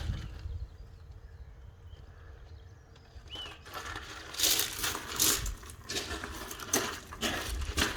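Footsteps crunching on loose ground, a sharp scuff or crunch every half second to a second, starting about four seconds in over a steady low wind rumble. Before them, in a quieter stretch, one short bird chirp.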